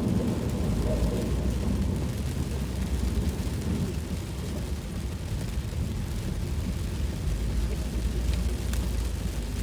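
Car driving through heavy monsoon rain, heard from inside the cabin: a steady low rumble of road and engine noise with rain on the car.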